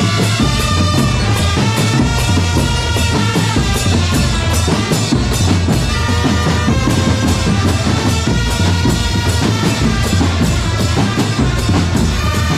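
Loud band music with a steady beat on bass drum and snare under a melody of held notes.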